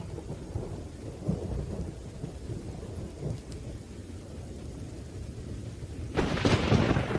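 Thunderstorm: low, rolling thunder rumbling under steady rain, then a sudden, louder crack of thunder about six seconds in.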